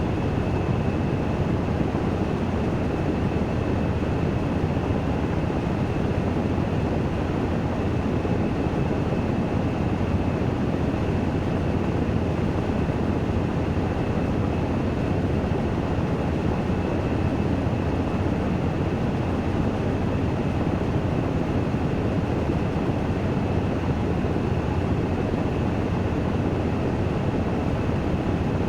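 Washing machine spinning in its spin cycle: a steady whirring rumble of the drum, with a faint high whine held at one pitch.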